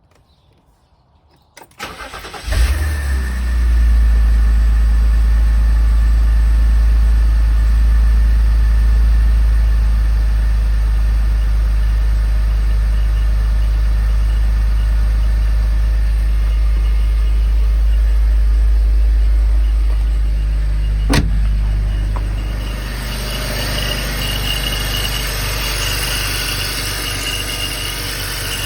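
2004 BMW X3 3.0i (E83) straight-six started from cold: the starter cranks briefly, the engine catches about two seconds in and then idles steadily. After a click about 21 seconds in the idle drops, and a high chirping, ringing noise rises over it, heard only at idle with the engine cold; the owner suspects the timing chain, an accessory, the AC compressor or the water pump.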